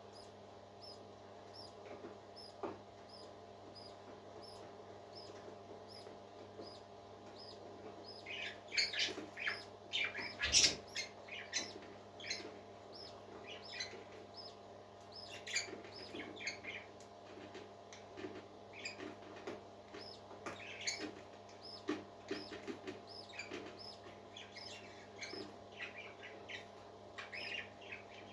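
Parakeets chirping and chattering. A faint high cheep repeats about twice a second, then from about eight seconds in a busy flurry of chirps and warbling sets in and carries on, over a steady low hum.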